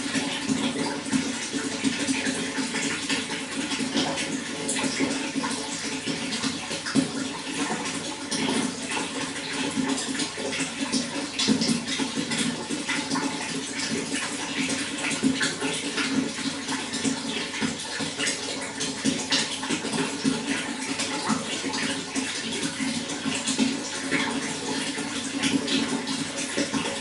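Running water splashing and gurgling steadily, a continuous dense stream with many small splashes.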